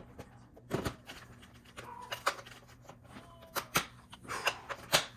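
A scattering of sharp knocks and clicks, about six in a few seconds, with a couple of brief faint squeaks between them.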